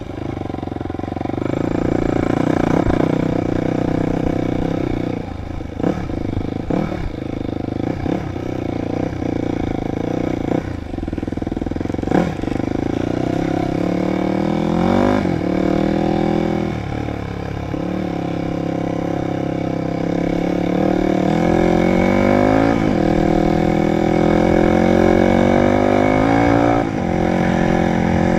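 Dirt bike engine running under load, its pitch rising again and again with the throttle and dropping back, with a few sharp knocks in the first half.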